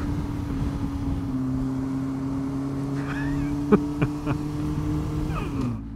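Yamaha Fazer 1000's inline-four engine running steadily while riding, with road and wind noise. A few short clicks come in the middle, and the engine note falls just before the end as the revs drop.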